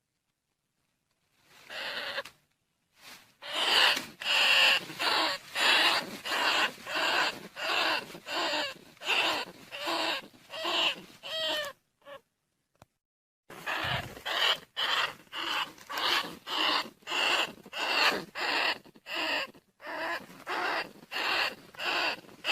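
Rat-lure call: short squeaking calls of rice-field rats and bandicoot rats, repeated about one and a half times a second. They begin about a second and a half in and pause briefly near the middle.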